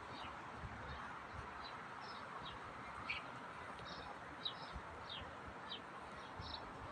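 Small birds chirping: many short, falling chirps, one every half second or so, over a steady outdoor hum.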